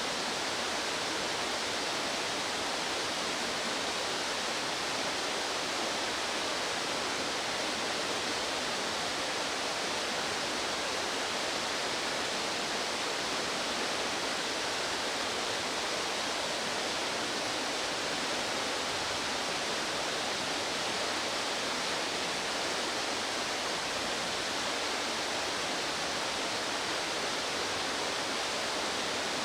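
Rushing stream water, a steady even rush with no change and no bird calls standing out.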